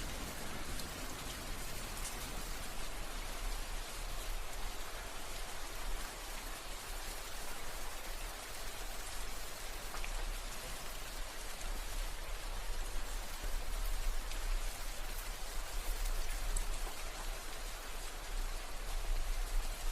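Steady rain falling on a surface, with individual drops heard as small clicks over an even hiss.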